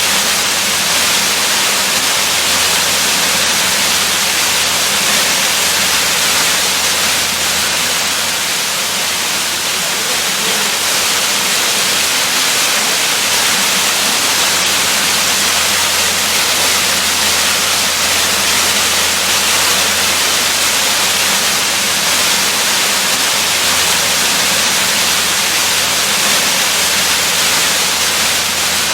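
Waterfall: a steady, even rush of falling water with a bright hiss and no breaks.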